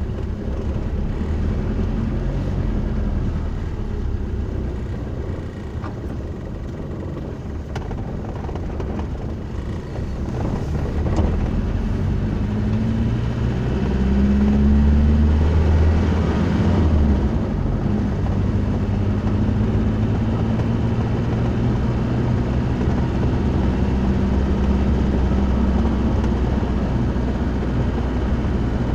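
A road vehicle's engine running steadily under a bed of road noise. Its low hum shifts in pitch and grows louder between about 14 and 17 seconds in, as the engine speed changes, then settles again.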